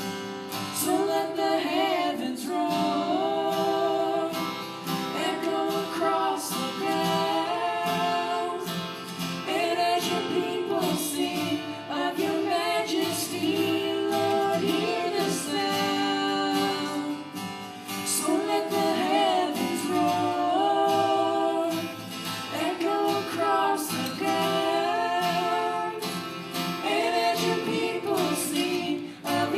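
Two children singing a worship song together over a musical accompaniment, in phrases of a few seconds each.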